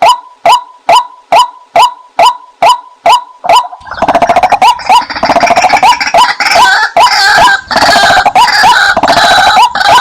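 Female white-breasted waterhen calls: a short, falling 'kwak' note repeated about twice a second. About four seconds in, a dense, harsh chorus of overlapping calls joins in and continues over the steady repeats.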